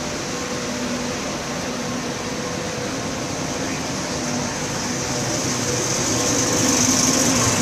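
Train running with a steady hum, a low droning tone and a high hiss, growing louder over the last couple of seconds as it draws nearer.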